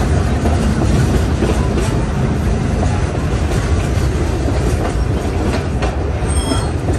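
Heritage train running along the track: a steady, loud rumble of the carriages and wheels on the rails, with a brief high-pitched tone about six seconds in.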